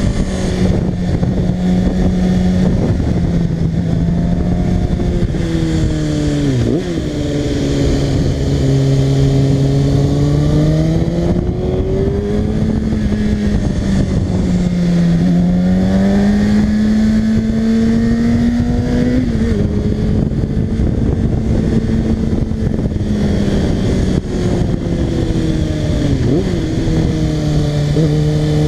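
Kawasaki ZX-6R 636 inline-four engine running under way, its pitch rising and falling over several seconds as the throttle opens and closes, with a few sharp dips in pitch.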